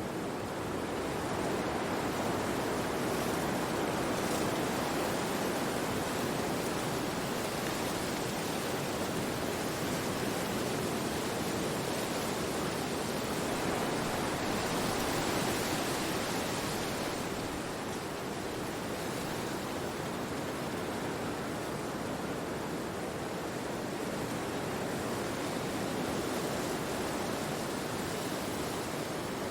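Wind blowing through forest trees: a steady rushing of leaves and branches that swells and eases, with a brighter gust about halfway through.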